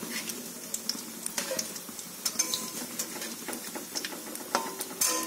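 Shrimp chops frying in oil in a kadai, a sizzle under repeated scraping and clicking of a spatula against the pan as they are turned over, with the sharpest knock near the end.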